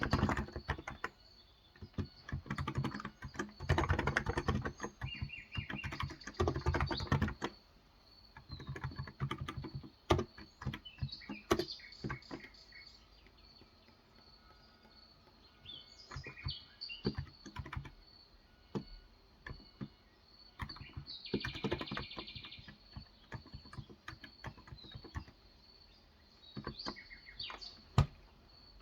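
Typing on a Cox Endeavor electrostatic-capacitive (Topre-style) tenkeyless keyboard with 35 g keys: fast runs of keystrokes for the first seven seconds or so, then slower, scattered keystrokes. Birds chirp outside, most plainly in a short burst past the middle.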